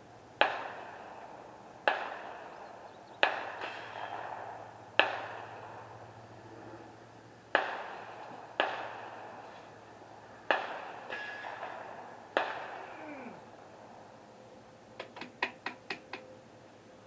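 Gunshots at a shooting range: eight loud shots at uneven intervals, each followed by a trailing echo, then a quick run of six fainter, faster shots near the end.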